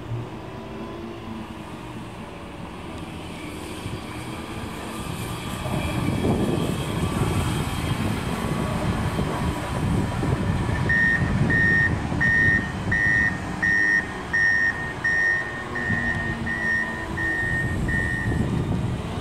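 DB Regio Talent 2 electric multiple unit rolling along the station tracks, its wheels rumbling on the rails, louder from about six seconds in. In the second half a high electronic warning beep repeats about a dozen times, a little under two a second.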